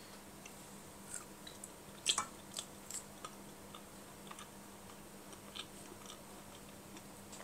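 Faint chewing of a mouthful of food, with soft scattered mouth clicks and smacks over a low steady hum.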